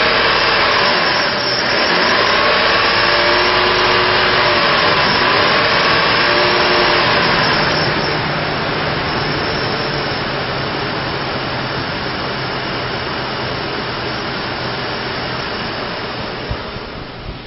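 2004 Chevrolet Trailblazer's 4.2-litre inline-six running under the hood with a loud, even rush of noise. For the first several seconds its pitch rises and falls as it is revved; about eight seconds in it settles into a quieter, steady idle.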